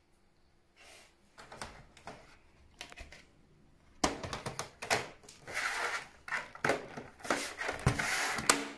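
Plastic top cover of a PlayStation 4 Pro being fitted and pressed into place on the console: a few faint clicks at first, then from about four seconds in a busy run of clicks, knocks and rubbing.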